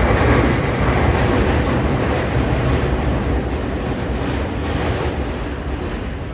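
Tokyu 3020 series electric train's running noise heard from on board, wheels rumbling on the rails with a few faint clicks. The sound falls steadily as the train slows.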